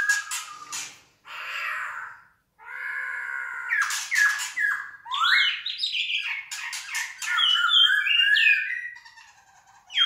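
Caged birds calling in an indoor aviary: a run of squawks, chirps and whistled notes that slide up and down in pitch, in short bouts with brief pauses, quieter near the end.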